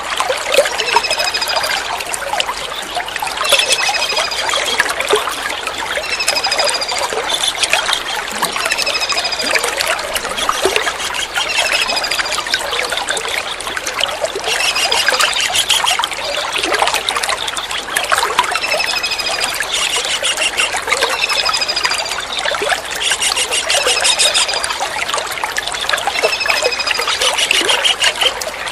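Kingfisher calls, short high slightly falling notes repeated about every two seconds, over a steady trickle of running water.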